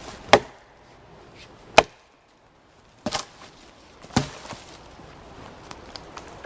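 Axe chopping through a dry dead tree trunk, four sharp strikes roughly a second to a second and a half apart, then a few lighter knocks as the cut is finished.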